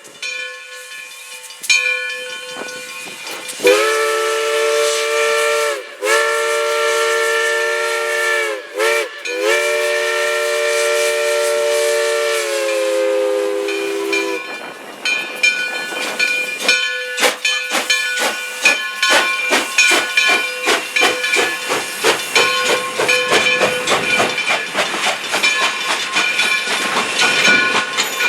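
Steam locomotive's chime whistle sounding several long blasts and one short one, the last sagging in pitch as it shuts off. Then a fast, even beating with steam hiss as the locomotive works to get the train moving.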